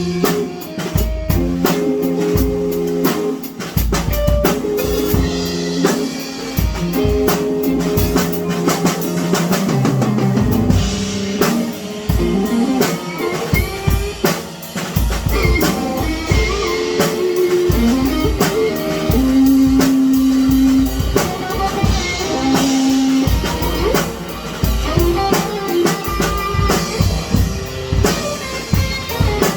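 Music with a drum kit playing throughout, its bass drum and snare hits dense and steady, over held notes from a guitar.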